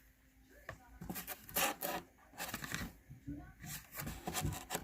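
Handling noise from a carded diecast toy truck being turned in the hands: irregular rubbing and scraping with light clicks of the packaging.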